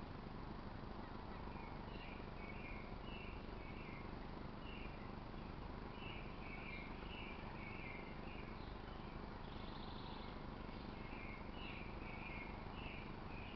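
Faint, high chirps repeated in quick series, coming in three bouts with pauses between, over a steady outdoor background hiss.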